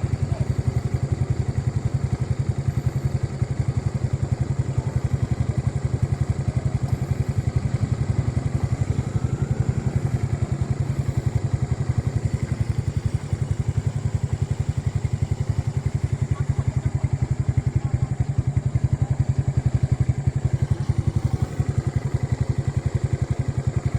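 Motorcycle engine running steadily, a fast even firing beat that holds the same pace and level throughout.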